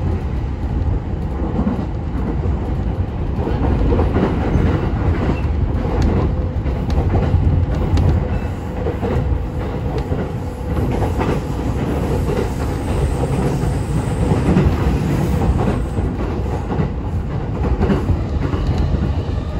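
Commuter train heard from inside the carriage, running over ordinary jointed rail: a steady low rumble with clacks as the wheels cross the rail joints.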